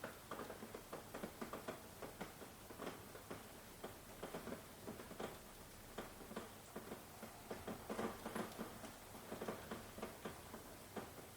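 Rain falling steadily, with close raindrops tapping irregularly on a surface over a soft hiss.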